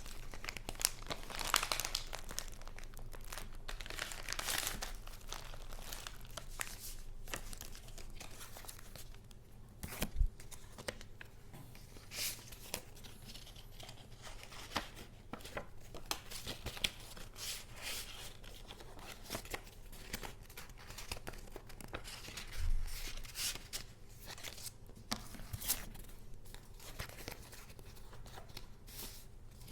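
Paper crinkling and rustling as it is handled, with a few soft knocks, the loudest about ten seconds in and again near twenty-three seconds.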